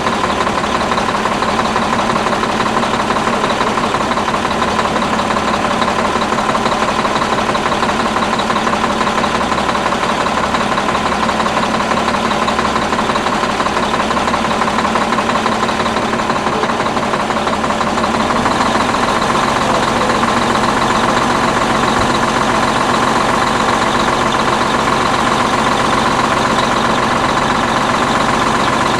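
Detroit Diesel 6V92 two-stroke V6 diesel in an old Ford 9000 truck running at a steady idle. The engine note shifts about two-thirds of the way through and holds there.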